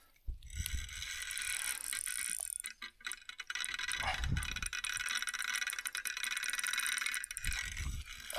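Fishing reel clicking rapidly and continuously as a big fish pulls line off against the drag, breaking off briefly about three seconds in.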